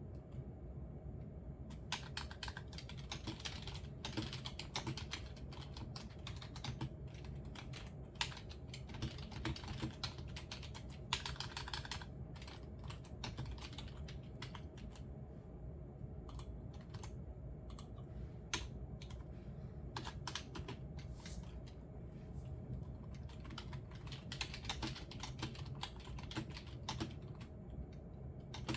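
Typing on a computer keyboard in bursts of quick key clicks with short pauses between them, starting about two seconds in, over a steady low room hum.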